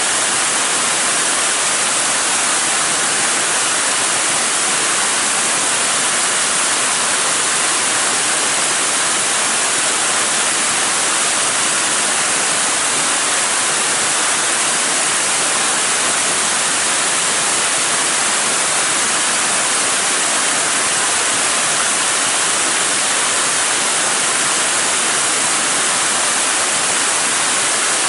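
Waterfall: a steady, unbroken rush of falling water, strongest in the hiss.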